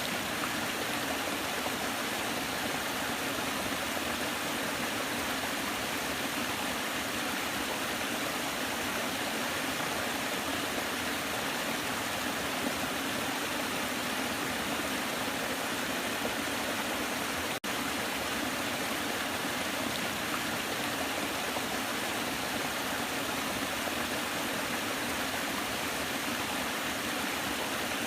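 Waterfall: a steady, even rush of falling water, with a split-second break about two-thirds of the way through.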